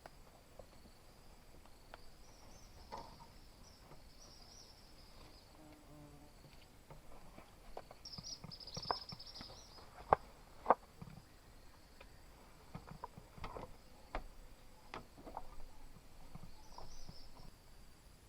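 Steady high insect chorus, swelling louder a few times, with scattered light clicks and knocks of handling. Two sharp knocks land about ten seconds in.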